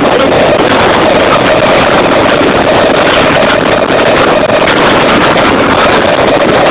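A vehicle engine running steadily at close range, loud and unbroken, with a constant drone over a rushing noise.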